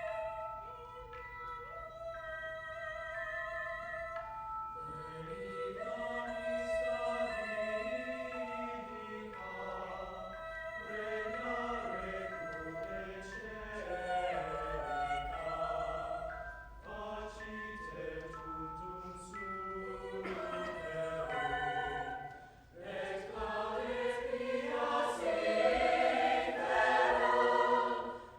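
High school choir singing a classical-style choral piece. A few seconds of steady instrumental notes lead in before the choir enters. The singing gets louder near the end.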